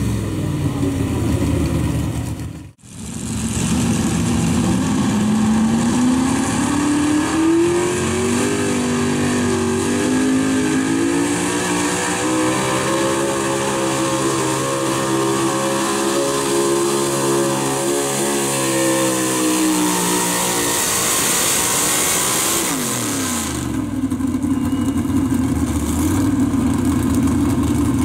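Gas-engined 4x4 pickup truck making a pulling run. After a short break the engine revs climb over several seconds, hold high with a slightly wavering pitch while under load, then fall quickly near the end and settle back to a lower, steady run.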